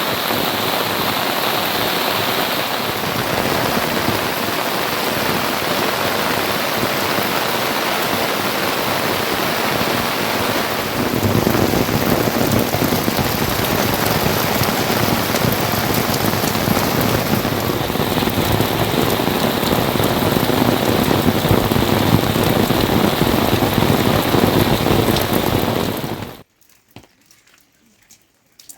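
Steady heavy rain falling, growing louder and fuller about eleven seconds in. It cuts off suddenly near the end, leaving near quiet with a few faint clicks.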